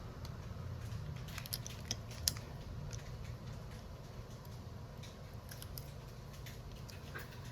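Scattered light clicks and snips of small hand tools working on a phone, in two clusters, over a steady low hum.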